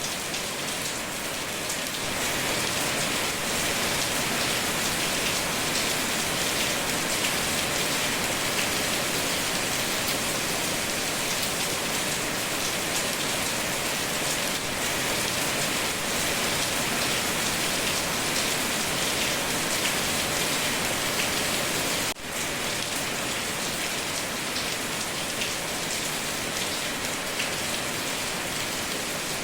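Steady rain falling, an even patter of drops, with a momentary drop in level about three-quarters of the way through.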